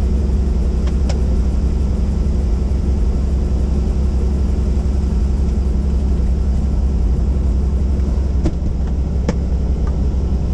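Helicopter engine and rotor running, a steady loud low drone that does not change in level, with a few faint clicks.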